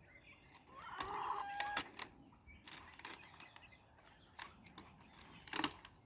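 Chickens: a short cluck or squawk about a second in, then scattered wing flaps and rustles.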